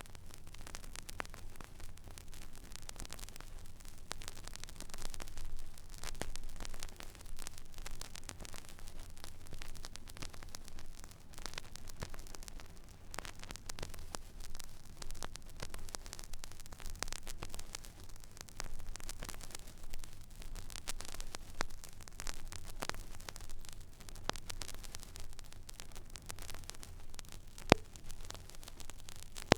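Stylus tracking an empty vinyl record groove: steady surface hiss and low rumble with scattered crackles and pops, one sharper pop near the end.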